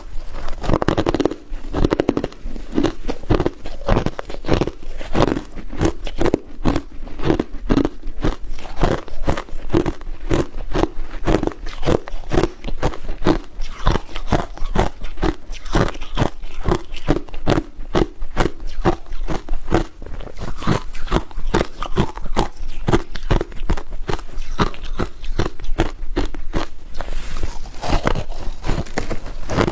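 Ice being bitten and chewed: a steady run of sharp, loud crunches, a few each second.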